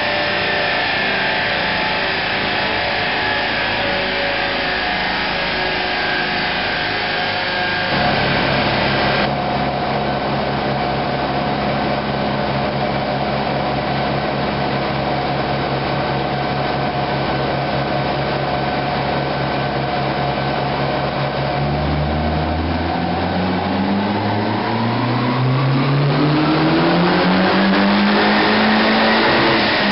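Turbocharged Alfa Romeo 145 2.0 16-valve four-cylinder engine running on a chassis dynamometer: it holds a steady speed for most of the time, then about two-thirds in climbs evenly in revs in a long pull under load, and drops off right at the end.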